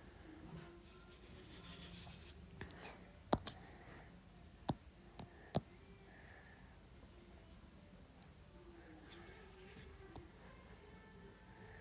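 Drawing strokes: two spells of soft, scratchy scribbling, one near the start and one late, with three sharp taps of the drawing tool in the middle.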